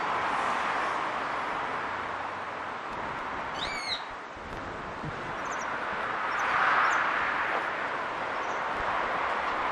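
A bird calls once, a short curved call, about four seconds in, followed by a few faint high chirps. Under it runs a steady outdoor rushing noise that swells near the end.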